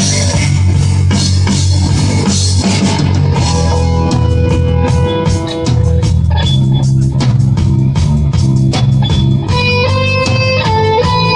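Rock band playing with no singing: electric guitar over bass guitar and drum kit, with a stepping guitar melody coming to the front near the end.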